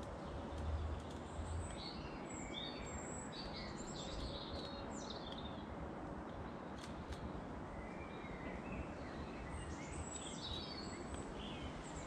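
Small birds chirping in short rapid calls, in two spells of a few seconds each with a pause between, over steady outdoor background noise.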